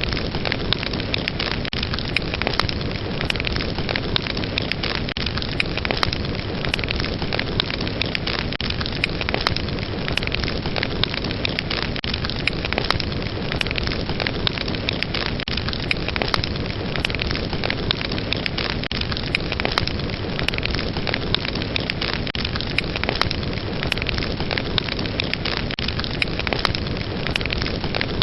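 Fire burning with a steady rushing hiss and frequent sharp crackles and pops.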